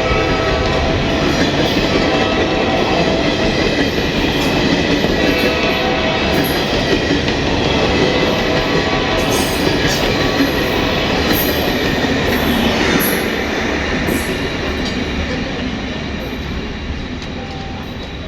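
Spanish-built passenger train passing through a station, its wheels rumbling steadily on the rails with clicks and squeal. It starts to fade away about two-thirds of the way through as the train moves off.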